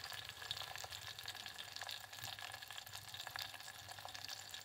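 Green chillies and onion frying in oil in an aluminium pot: a faint, steady crackle of many small pops, the onions not yet light brown.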